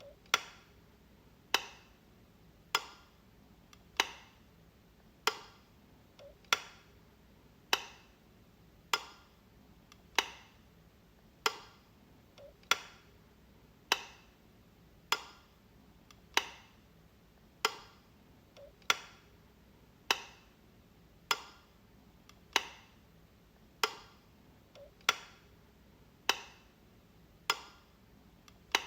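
Light switch being flicked over and over: sharp single clicks, evenly spaced about one every 1.2 seconds, with a few much fainter clicks in between.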